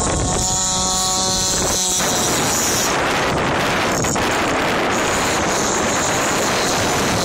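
Gas RC boat's two-stroke engine running at speed, its whine clear for the first couple of seconds and then lost in a steady rushing hiss, with wind buffeting the microphone.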